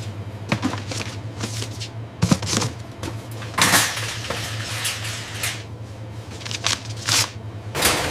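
Scattered clicks, knocks and rustling, like objects being handled, over a steady low hum; just before the end it gives way to a steady rushing noise.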